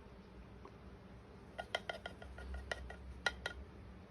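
Chinese ink brush being rinsed in a water dish, its handle clinking against the rim in a quick, irregular run of light chinks that begins about one and a half seconds in.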